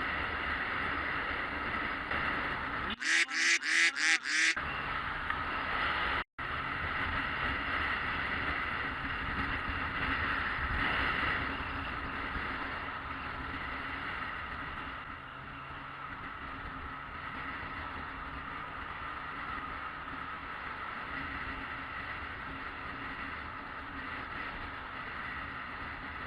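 Yamaha XJ600S Diversion inline-four running steadily on the move, with wind noise. About three seconds in, five short honks in quick succession stand out as the loudest sound.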